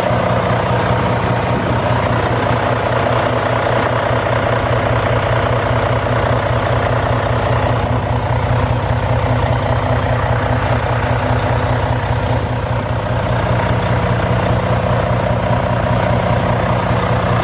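Volvo D13 inline-six diesel engine of a semi truck idling steadily.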